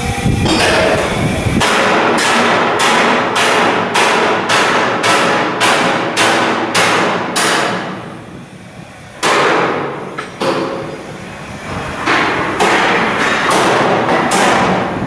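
Hammer blows on steel in a shipyard, struck in a steady run of about two to three a second, each ringing briefly. After a pause comes a single blow, then another short run near the end.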